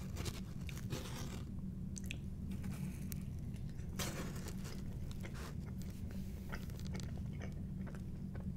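Close-miked chewing of pizza: moist mouth clicks and crackles of crust being chewed, with one louder crunch about four seconds in. A steady low hum runs underneath.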